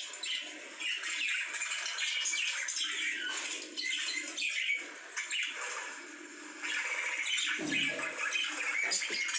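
Pet lovebirds chattering and squawking in a dense run of high chirps, with a brief softer stretch about six seconds in.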